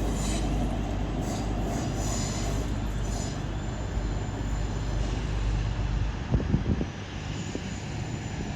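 A pair of East Midlands Railway Class 360 electric multiple units pulling out of the station with a steady rumble. A faint high squeal fades over the first few seconds, and a few sharp knocks come about six seconds in.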